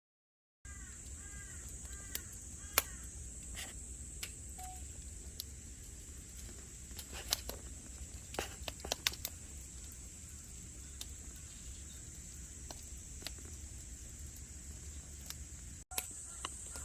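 A bird calling in a quick series of short arched notes during the first few seconds, over a steady high-pitched drone, with scattered sharp clicks throughout.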